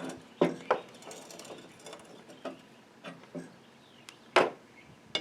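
Scattered sharp metallic clicks and knocks, the loudest a little past four seconds in, as a freshly loosened nut is turned off a Snapper riding mower's pulley shaft by hand and the parts and tools are handled.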